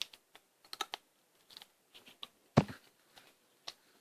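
Crunchy fried potato snack being bitten and chewed: a run of sharp, irregular crackles, the loudest about two and a half seconds in.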